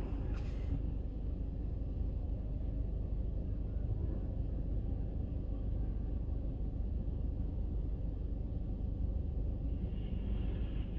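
Steady low rumble of car engines with no distinct revving, and a higher hiss coming in near the end.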